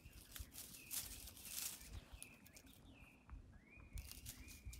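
Faint crackly rustling as a wire fox terrier's paws and nose work through dry leaves and pine needles, with a bird giving short high calls several times.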